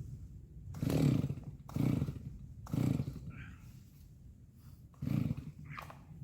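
Old chainsaw engine sputtering in four short bursts, about a second apart and then once more after a gap, as it is being started and won't keep running.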